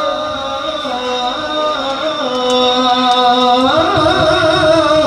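A male qari's voice in melodic Quran recitation, holding one long ornamented note that steps up in pitch about four seconds in and holds again.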